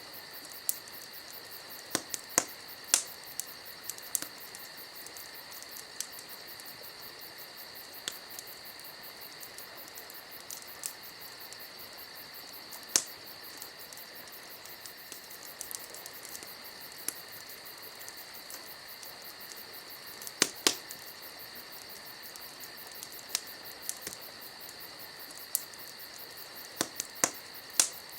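Wood campfire crackling, with sharp pops at irregular intervals and a loud cluster about two-thirds of the way through, over a steady chorus of crickets.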